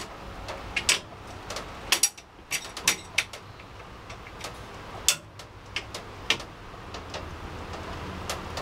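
Steady hiss of rain through an open window, with irregular sharp ticks, roughly one a second, bunched together around two to three seconds in.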